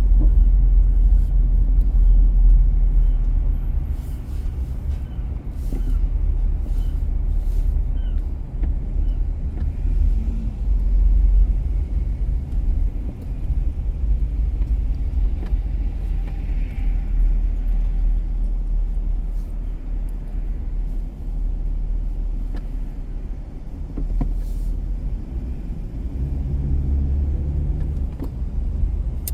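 A car driving on city streets: a steady low road and engine rumble with a few faint ticks.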